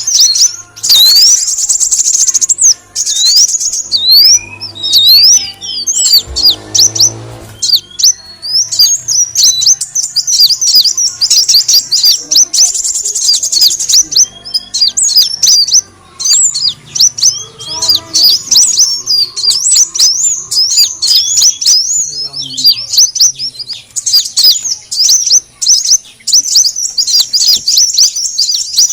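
Kolibri wulung sunbird calling in a lure recording: a rapid, unbroken stream of high, thin chirps, each a quick sweep in pitch.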